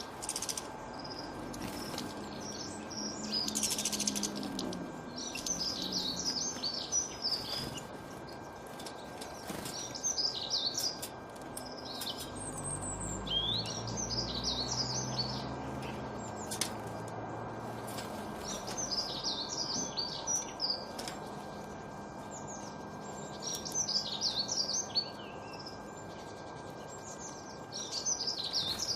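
A songbird singing short, rapid twittering phrases, one about every three to four seconds, over a steady background hiss.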